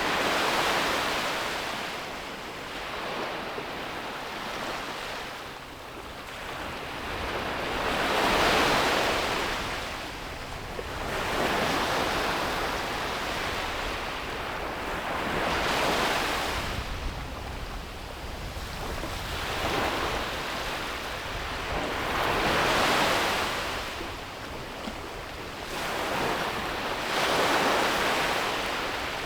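Sea waves breaking on a beach: a wash of surf that swells and fades about every six to eight seconds.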